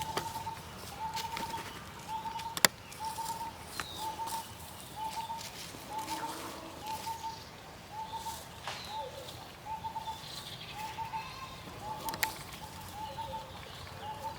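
A bird calling the same short, slightly arched note over and over, about three notes every two seconds, with a few sharp clicks, the loudest under three seconds in.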